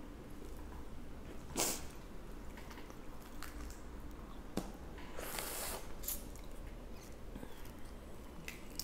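Close-up eating sounds: wet chewing and squishing of seafood-boil food, with a few sharp smacks and clicks, the loudest about a second and a half in, and a short rustle a little past midway.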